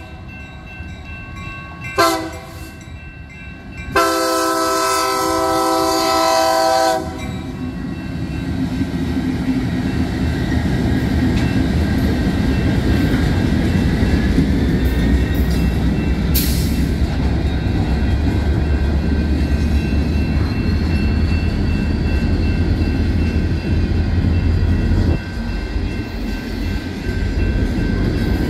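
Freight locomotive's air horn sounding a short blast about two seconds in and a long blast from about four to seven seconds in, the end of its grade-crossing signal. Then the locomotive passes with a deep engine rumble and the freight cars roll steadily over the crossing.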